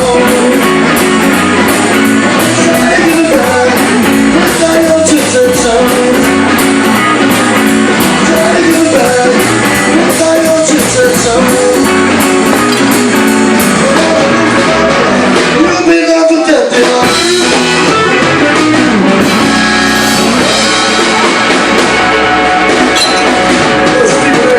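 Live blues-rock bar band playing loud and steady, with electric guitar and singing. The bass and drums drop out for a moment about sixteen seconds in before the band carries on.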